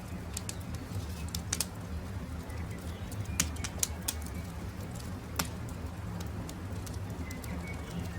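Wood campfire crackling: scattered sharp pops and snaps over a steady low rumble, with the loudest pops about three and a half and five and a half seconds in. Faint short bird calls are heard a few times.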